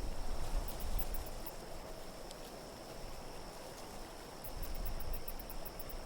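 Wind rumbling low in a winter-night ambience soundscape, easing off midway and swelling again, with two brief runs of faint, rapid high-pitched chirping ticks: about a second in and again near the end.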